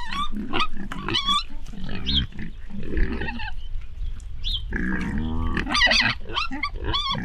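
Piglets squealing in a rapid run of short, high calls, with a longer, lower grunt about five seconds in.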